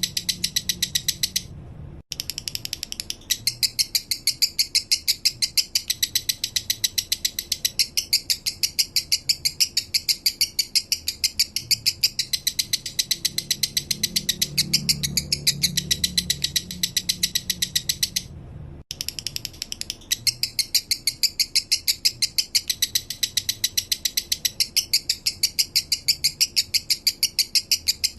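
Male lovebird singing its 'minor' song: a fast, even string of sharp, high chirps, about ten a second, broken by two short pauses, about a second and a half in and about eighteen seconds in.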